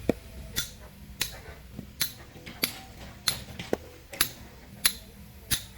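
A hammer striking steel tools into rock for manual stone splitting: a steady rhythm of sharp metallic blows, about one and a half a second, each with a short ring.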